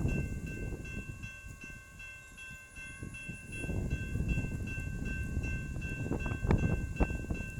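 Amtrak train rumbling past a railroad grade crossing, with the crossing bell ringing steadily above it. Wind buffets the microphone, and there are two sharp knocks near the end.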